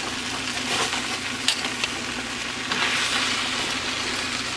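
Chow mein noodles and vegetables sizzling in a large metal pot as they are stirred and tossed, with a few light clicks and scrapes of the utensil against the pot about a second and a half in. A steady low hum sits underneath.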